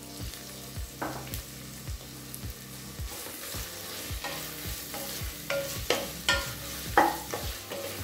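Onions and chopped tomato frying in oil in a pressure cooker pot, sizzling steadily while a spatula stirs them, scraping and knocking against the pot many times.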